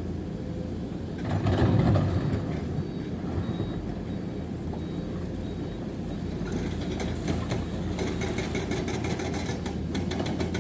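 Heavy diesel engine running with a steady low rumble, swelling briefly about a second and a half in. From about two-thirds of the way through, a fast clatter of many small knocks joins it.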